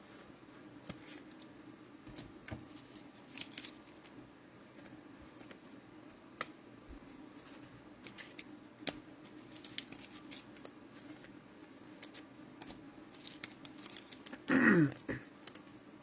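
Trading-card packs and cards being handled: scattered small clicks and light rustles of packaging and card stock. Near the end comes a brief, loud vocal sound with a falling pitch.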